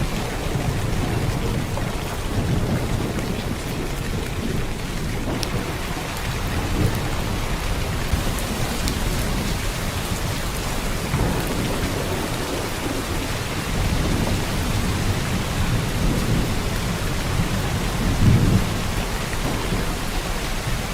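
Heavy rain pouring down steadily, a dense unbroken hiss, with low rumbles that swell and fade several times, the loudest near the end.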